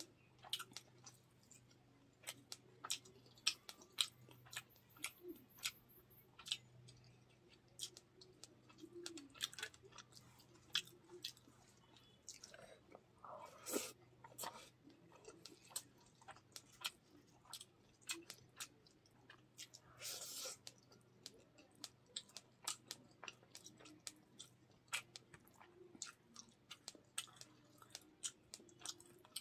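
Close-up chewing of a mouthful of fried fish and rice: soft wet mouth noises with frequent sharp lip-smacking clicks. There are two longer, louder mouth sounds, one about halfway through and one about two-thirds of the way in.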